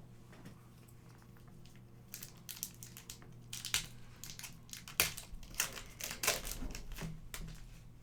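Plastic trading-card pack wrapper crinkling as it is torn open and handled, a run of crackles starting about two seconds in and dying away near the end.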